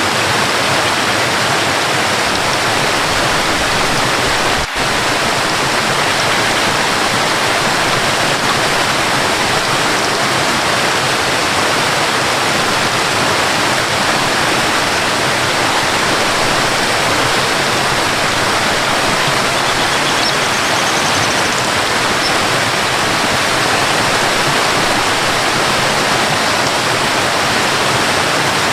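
Waterfall rushing steadily, a dense, even roar of falling water, with a brief dip in level about five seconds in.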